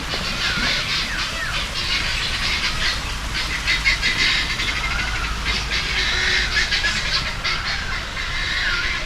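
Many birds calling at once: a dense chorus of chirps, whistles and swooping calls, over a low steady rumble.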